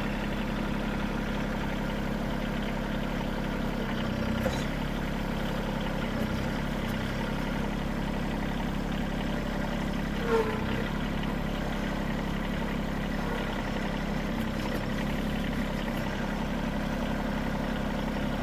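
Bad Boy compact tractor's engine running steadily while its log load is let down and unloaded, with a brief clunk about four and a half seconds in and a short squeak about ten seconds in.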